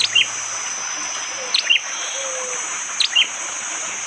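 Prenjak jali (a prinia) giving its hard, sharp 'tembakan' call: a quick pair of high, downward-flicking notes, repeated three times about every second and a half. A steady high insect drone runs underneath.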